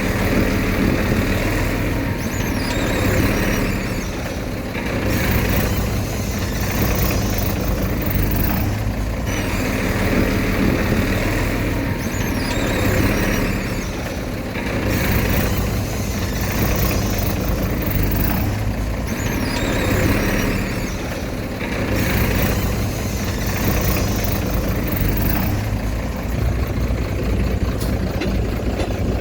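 Diesel engine of heavy earthmoving machinery running steadily, with a higher rushing sound that swells and fades about every four to five seconds as the machine works.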